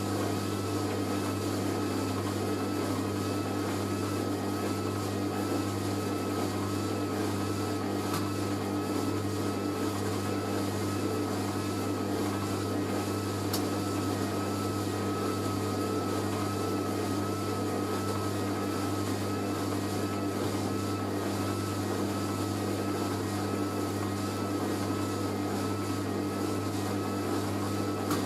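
Hoover A3060 Electronic 1100 washing machine spinning a jumbo sofa throw in its final spin: a steady motor hum with a high whine that wavers in an even rhythm.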